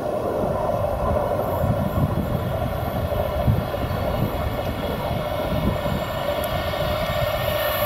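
DB class 101 electric locomotive hauling InterCity coaches, approaching on the main line: a steady hum and rumble of the train running, growing a little louder near the end.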